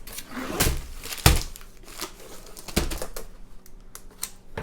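Plastic packaging crinkling and rustling as the contents of a diamond-painting kit are handled, with two sharp knocks on a table, about a second in and again near three seconds.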